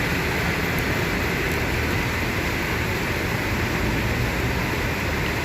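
Steady rumble of a moving bus: engine hum and road noise with no change in level.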